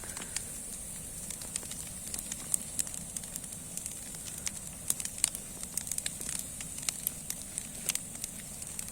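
Large bonfire of branches with an old sofa freshly thrown on, burning with irregular sharp crackles and pops over a steady hiss.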